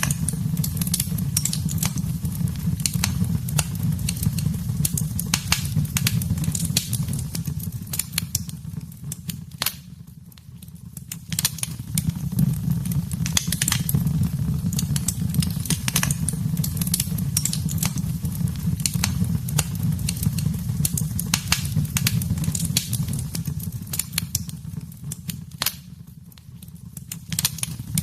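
Wood fire burning in a fireplace: a steady low rumble of flames with frequent sharp crackles and pops. It eases off briefly twice, about ten seconds in and again near the end.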